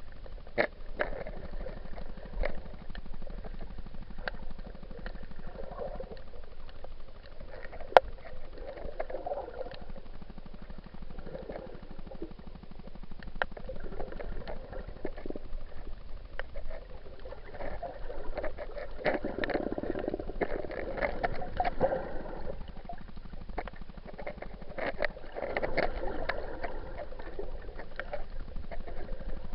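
Muffled underwater sound through an action camera's waterproof housing: irregular gurgling and bubbling that comes and goes, heaviest in two stretches in the second half. Scattered small clicks run through it, with one sharp click about eight seconds in.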